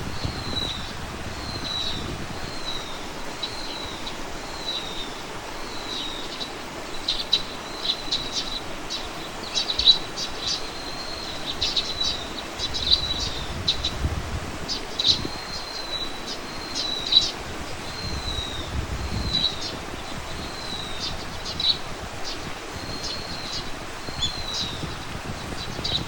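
Small birds calling outdoors: a short, high, falling note repeated over and over, about three every two seconds, then joined by quick bursts of chirps and ticks. A steady outdoor hiss and occasional low wind rumble sit underneath.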